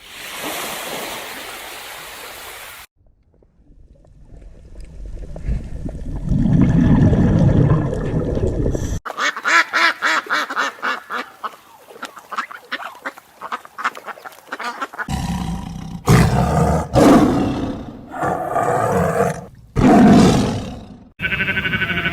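A series of different wild animal calls, cut one after another: a low roaring call, then a fast run of rapid pulsed calls, then several loud separate cries.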